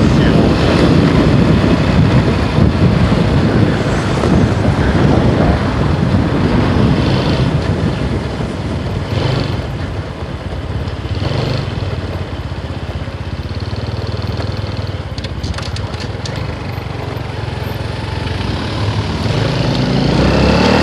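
Motorcycle running while being ridden, with a dense rush of noise. It is loudest at the start, eases off through the middle stretch and builds up again near the end.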